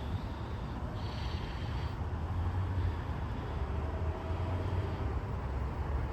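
Train passing the station, a steady low rumble.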